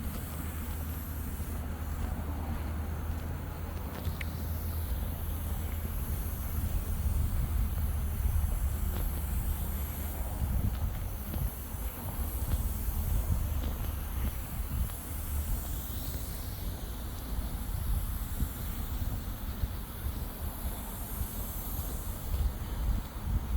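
Outdoor ambience while walking, dominated by wind rumbling and buffeting on the microphone, gustier from about ten seconds in, with a faint steady high hiss.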